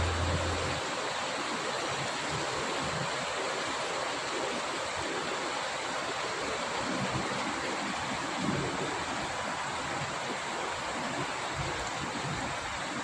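Steady rain falling, an even hiss. A low hum dies out about a second in.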